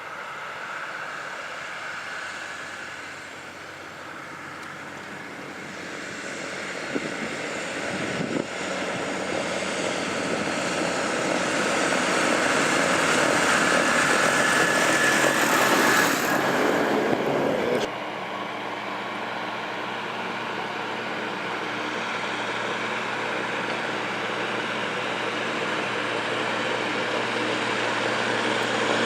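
Tractor engine running and building up, getting louder through the first half with a high whine near the middle. It changes abruptly about 18 seconds in to a steadier engine note that slowly grows louder.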